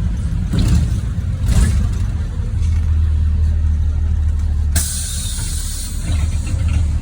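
NefAZ 5299 city bus running with a steady low engine rumble and two short knocks in the first two seconds, then a sudden hiss of released compressed air from its pneumatic system about five seconds in, fading over a second or so.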